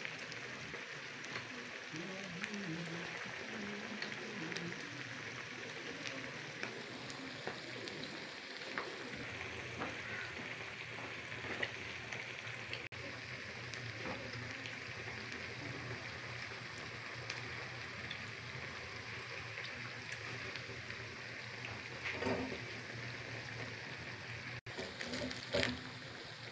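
Potato slices deep-frying in hot ghee in a wok: a steady, even sizzle.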